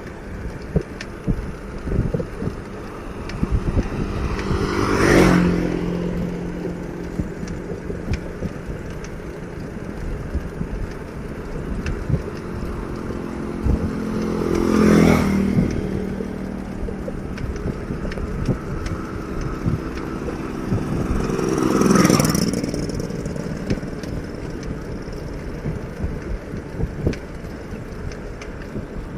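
Three motor vehicles pass one after another, about 5, 15 and 22 seconds in, each engine swelling up and fading with a falling pitch as it goes by. Under them runs a constant rumble and rattle.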